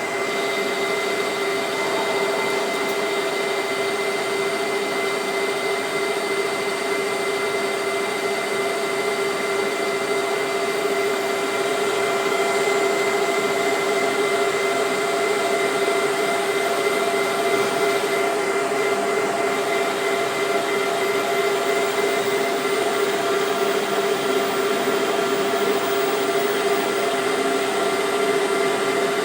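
CK6156 CNC lathe running: a steady machine whine with a strong humming tone, getting slightly louder about midway.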